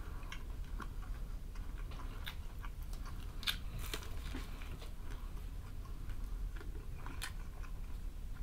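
Close-up crunching and chewing of crispy breaded fried chicken: scattered crisp crunches, the strongest about three and a half and seven seconds in, over a steady low hum.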